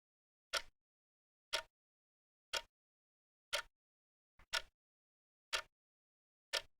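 Clock-tick countdown sound effect: seven short, sharp ticks exactly a second apart, with dead silence between them.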